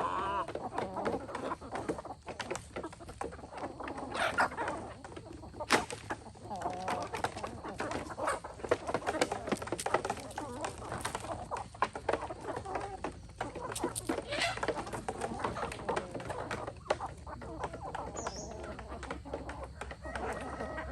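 Chickens clucking, with many short clicks and knocks in between.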